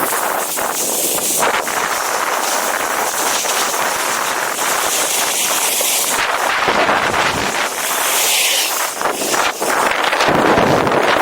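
Strong wind blowing across the microphone: a loud, steady rushing noise that swells and eases slightly.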